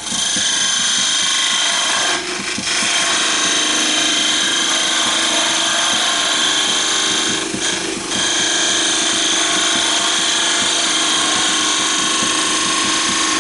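Wood lathe running with a turning tool cutting into the spinning wood blank, a loud steady cutting noise with a high whine. It eases off briefly twice, about two seconds in and about eight seconds in.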